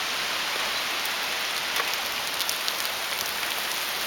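Heavy rain falling steadily, with a few sharper raindrop hits close by.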